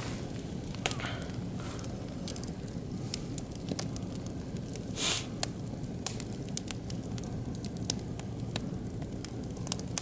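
Oak and beech wood fire crackling, with many scattered sharp pops over a steady low rumble, and one short hiss about halfway through.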